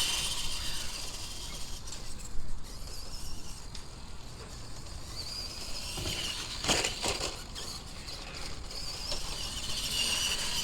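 Electric motor and gearbox of a radio-controlled monster truck whining as it drives. The whine fades just after the start and picks up again near the end, with a short burst of clattering knocks about seven seconds in.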